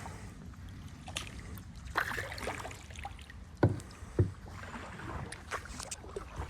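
Kayak paddling: water noise from paddle strokes over a steady low rumble, with two sharp knocks about half a second apart a little past the middle.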